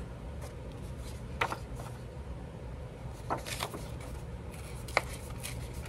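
Paper being handled on a craft desk: a few short rustles and taps over a steady low hum.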